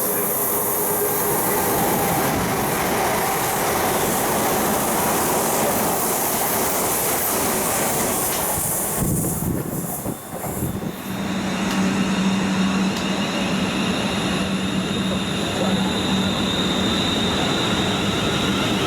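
Train moving through a station, with loud wheel-on-rail noise. The noise drops briefly about ten seconds in, after which a steady low hum sets in under the continuing rail noise.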